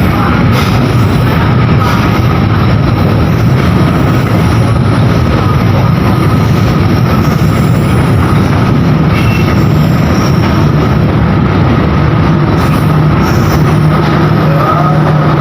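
Train running through a station at close range: a loud, steady rumble of wheels on the rails with a thin, steady high tone over it, and a low hum that grows stronger near the end.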